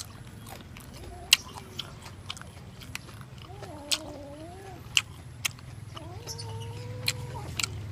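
Close-up chewing of crispy grilled pork, with scattered sharp crunchy clicks. Two drawn-out, wavering high-pitched cries come about four seconds in and again about six seconds in.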